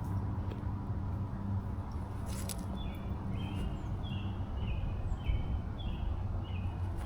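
A bird calling, a short high note that steps down in pitch, repeated about twice a second from about three seconds in, over a steady low outdoor rumble.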